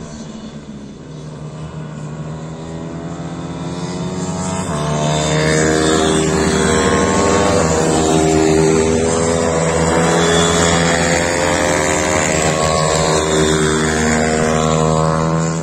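Small motors running steadily, a droning hum made of many tones that grows louder about five seconds in and holds.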